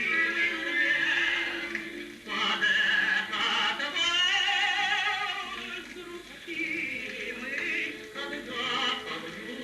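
A sung waltz: a vocal line with wide vibrato over instrumental accompaniment, with a brief dip in loudness about two seconds in.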